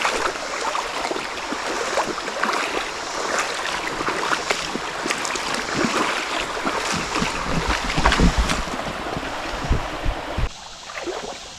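Flood-swollen creek water rushing, with irregular splashes and knocks close by and low thumps about six to ten seconds in; the noise drops off suddenly near the end.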